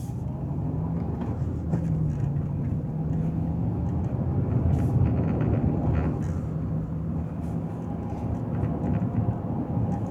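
A car driving, with a steady low engine drone over continuous road and tyre noise, growing louder over the first second or two.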